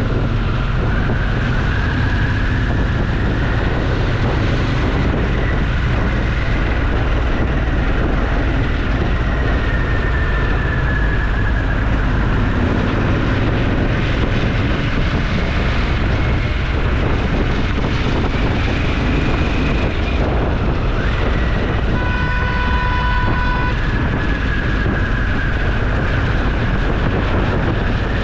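Motorcycle riding at speed: steady wind rush over the action camera with the engine running underneath. About 22 seconds in, a steady high tone with overtones sounds for about two seconds.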